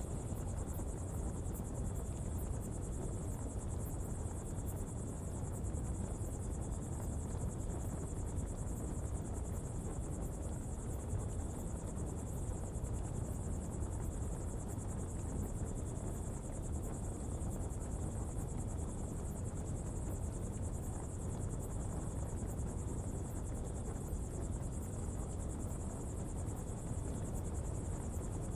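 Steady ambience around a coal-fuelled pottery fire: a constant low rumble underneath, with insects trilling steadily and high above it.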